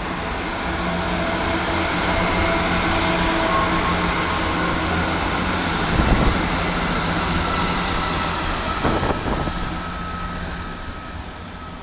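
Class 158 diesel multiple unit moving through the platform: a steady diesel engine hum under rolling rail noise that builds, with a clunk about six seconds in, then fades away.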